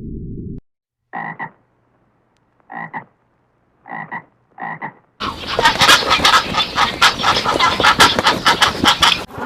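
Animal calls: a low rumble cuts off just after the start, then four short croaking calls about a second apart, then a loud, dense chorus of croaks and clicks from about five seconds in that stops abruptly near the end.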